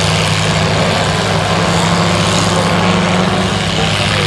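Stock 5000 gasoline farm tractor engine running hard under full load while pulling a weighted sled, a loud steady drone with a strong low pitch.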